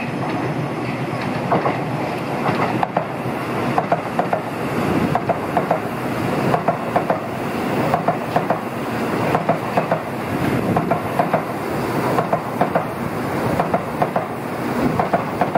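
N700-series Tokaido Shinkansen train passing, its wheels clicking over the rail joints in quick clusters that repeat about once a second, over a steady rushing rumble of the train. The clicking sets in about a second and a half in.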